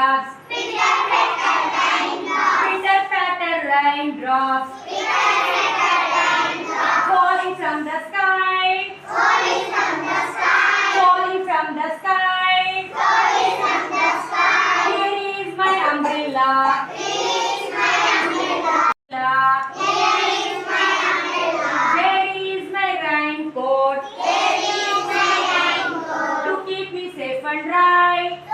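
A group of young children singing a rhyme together in unison, with one very brief break about two-thirds of the way through.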